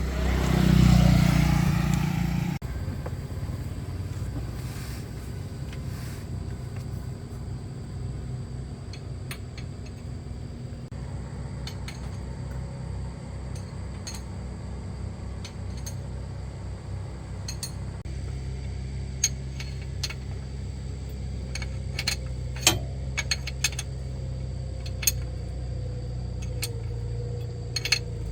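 A steady low mechanical hum, after a louder rushing surge in the first two seconds, with a few light metallic clinks in the second half.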